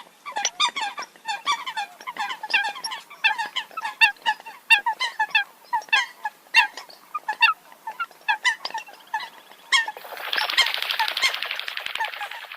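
Eurasian coot giving a rapid series of short, sharp calls, several a second. About ten seconds in, a dense rushing noise comes in over the calls and lasts to the end.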